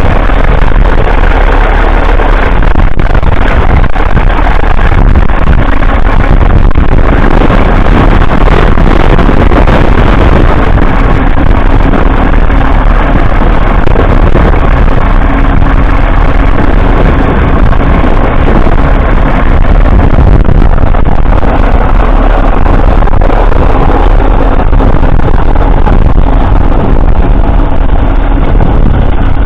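1947 Fordson Model N tractor's 4.4-litre four-cylinder petrol/TVO engine running steadily, pulling a trailed plough.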